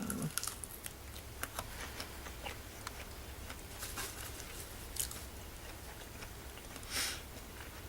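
A person chewing and biting into chicken wings: faint, scattered wet clicks and smacks of eating.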